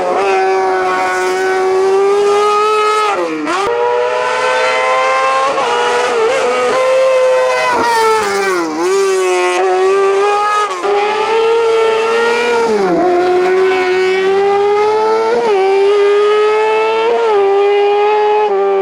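Race car engine revving hard at high revs, its pitch dipping sharply and briefly about five times and climbing straight back each time, as at gear changes and lifts between flat-out stretches.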